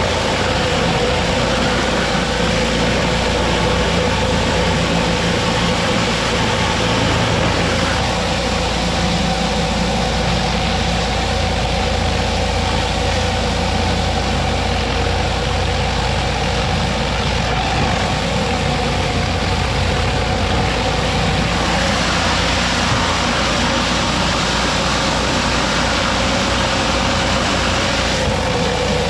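Pressure washer engine running steadily at full power, over the steady hiss of high-pressure water from a surface cleaner working across concrete.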